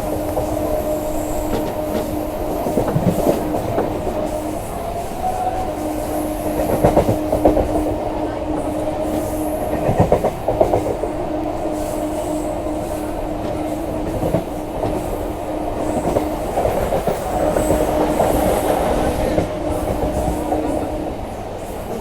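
Electric local train running at speed, heard from on board: a steady electric hum under the clickety-clack of wheels over rail joints. Louder bouts of clatter come about 3, 7 and 10 seconds in.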